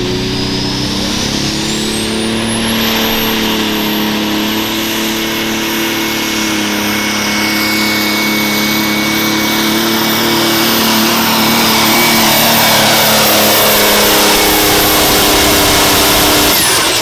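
Pulling tractor's engine working hard under load, with a high turbo whistle that spools up over the first few seconds, holds, and falls away sharply near the end as the run is shut down.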